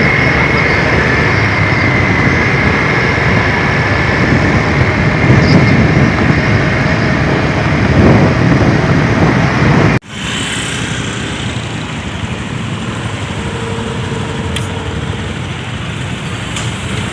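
Loud, steady road-traffic and engine noise. It drops abruptly to a quieter background noise about ten seconds in.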